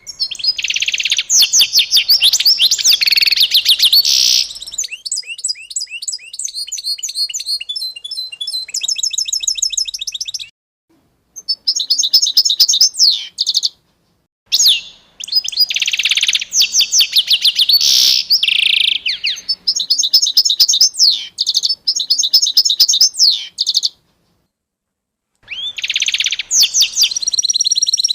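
Songbirds singing: dense phrases of rapid high chirps and trills, broken three times by a sudden second or so of complete silence where the recording cuts.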